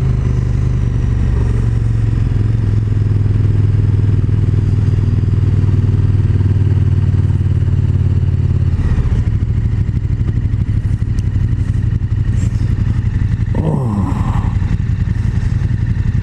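KTM 1290 Super Duke GT's V-twin engine running at a steady pitch while riding. The note changes about nine seconds in, and a brief falling tone sounds a couple of seconds before the end.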